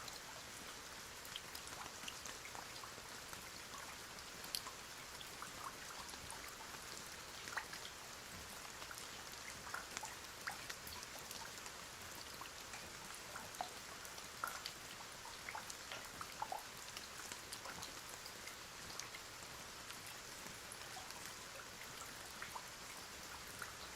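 Steady, fairly quiet rain: a constant hiss with many scattered single drops ticking through it.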